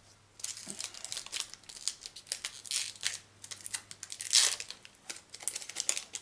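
Foil booster pack wrapper crinkling and tearing as it is opened: an irregular run of crackles, loudest about four seconds in.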